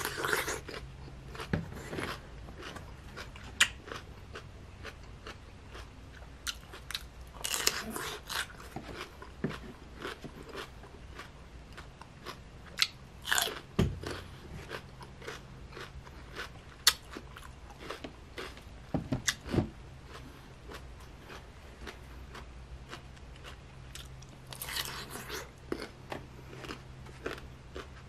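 Close-miked biting into a pickled cucumber coated in chili sauce, then crunchy, wet chewing. Bursts of crunching come every few seconds, with small clicks between them. A faint steady low hum runs underneath.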